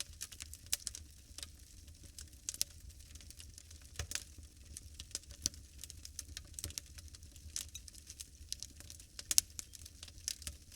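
Wood fire burning in a fireplace, crackling with irregular snaps and pops over a low steady rumble, with a sharper pop about four seconds in and the loudest one near the end.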